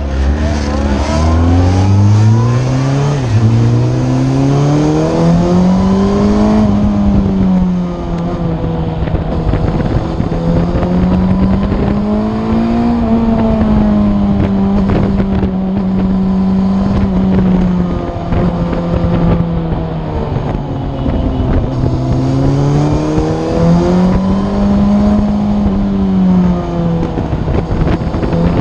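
Yamaha FZ8's inline-four engine with an Akrapovic exhaust, ridden on the road: it accelerates hard through the first six seconds with a gear change about three seconds in, then its revs rise and fall with the throttle. Wind rushes over the microphone throughout.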